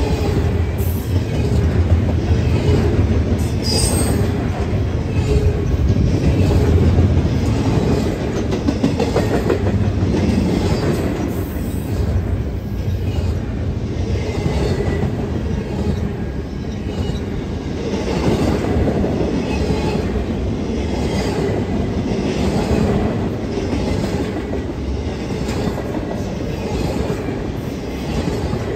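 Train cars rolling past close by: a steady rumble of steel wheels on the rails with repeated clicks over rail joints and a faint high wheel squeal.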